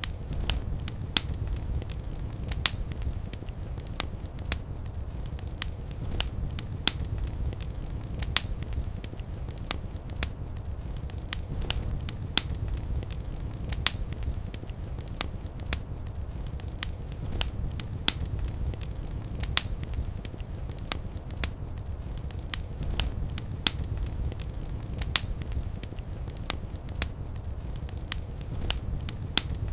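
Fire in a fireplace crackling, with irregular sharp pops, about one or two a second, over a steady low rumble of flame.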